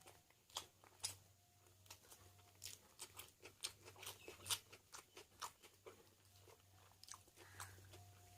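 A person eating close to the microphone: chewing and crunching food, with many short, irregular mouth clicks.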